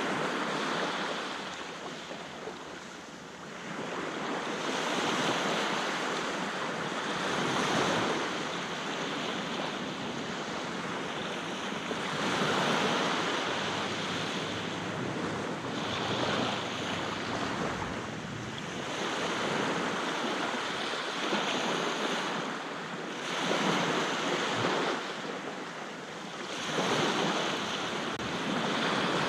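Sea waves breaking and washing on the shore, swelling and falling every few seconds, with some wind noise on the microphone.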